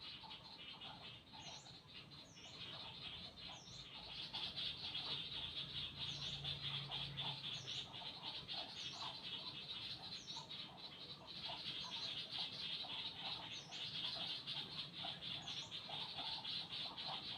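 Birds chirping and calling: a dense, fast high-pitched chatter, with a short, sharp, higher call every second or two and many quick lower chirps. It gets louder about four seconds in.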